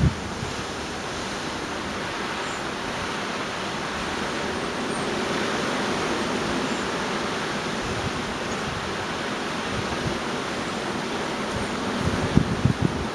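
Gale-force wind rushing steadily, with gusts thumping on the microphone at the start and several more near the end.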